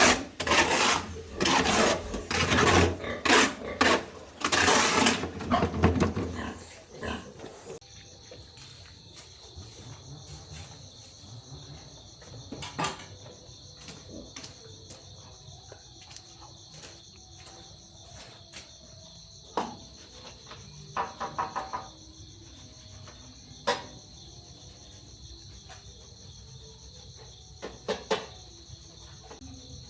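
Pigs squealing loudly in a string of bursts for the first several seconds. Then they stop, and a steady high chirring of crickets remains, with a few scattered clicks.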